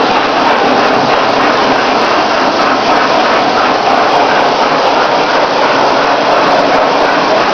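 Lionel O-gauge toy train running on Super O track: a steady rattling whir of the motor and wheels rolling over the rails.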